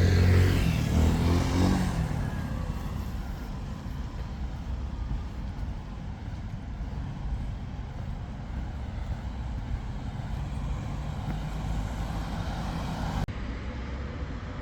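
City street traffic: a vehicle engine passes close at the start, its pitch falling, then steady traffic noise.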